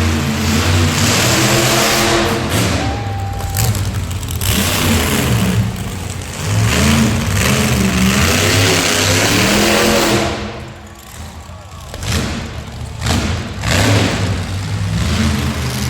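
Monster truck engine being revved hard, its pitch climbing and falling over and over. The engine drops off briefly about two-thirds of the way through, then revs up again.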